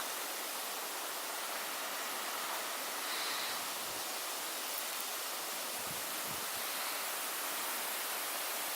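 Steady rushing hiss of blizzard wind driving heavy snow, with a few low gusts buffeting the microphone, strongest about six seconds in.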